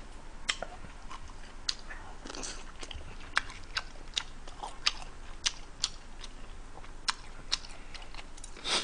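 A person chewing a mouthful of tteokbokki and fried chicken close to the microphone: a run of sharp, irregular mouth clicks and smacks, with a louder burst near the end.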